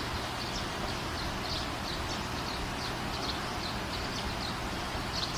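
Small birds chirping, with many short, high chirps at an irregular pace over a steady background hiss.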